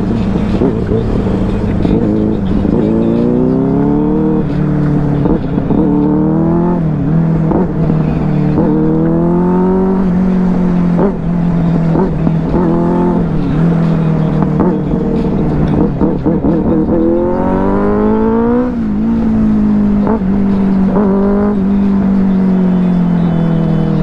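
Benelli 600i inline-four motorcycle engine under hard acceleration, its pitch climbing and then dropping again and again as it revs up and shifts through the gears, with wind rumbling on the microphone.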